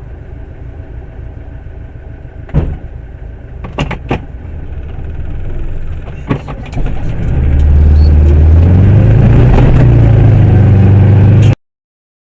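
A motor vehicle running on the road, with several sharp knocks. About seven seconds in, a very loud low rumble builds up and then cuts off abruptly.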